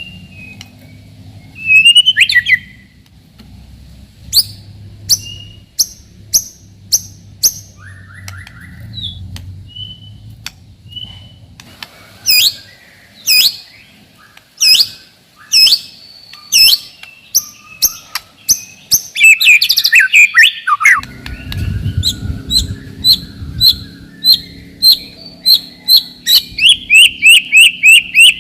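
White-rumped shama (murai batu) singing: loud, sharp whistles and chirps, many falling quickly in pitch, delivered in irregular bursts, then a fast even run of about four repeated notes a second near the end.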